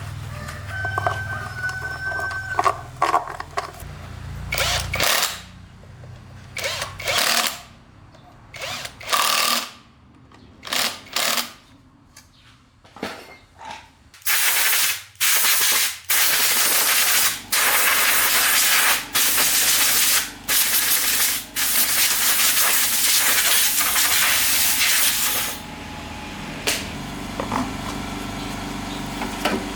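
A workshop tool run in short bursts of loud hissing noise, then held on almost continuously for about ten seconds with brief breaks. A low hum sounds in the first few seconds.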